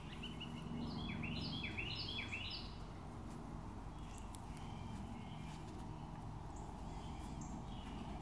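Quiet backyard ambience with a songbird singing a quick run of repeated high chirping notes about a second in, lasting about two seconds, followed by fainter scattered bird chirps.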